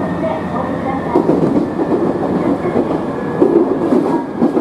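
Electric train running along the track, heard from inside the car at the cab: a steady rolling rumble with a few sharp wheel clacks over rail joints.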